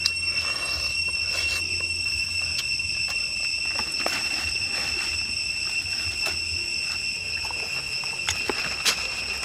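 Steady, high-pitched drone of insects, with scattered sharp clicks and crackles over it; the loudest click comes near the end.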